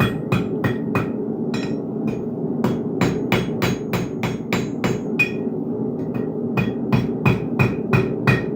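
Blacksmith's hammer striking hot steel on an anvil in quick runs of about three to four blows a second, with short pauses between runs; each blow rings briefly. A steady low hum runs underneath.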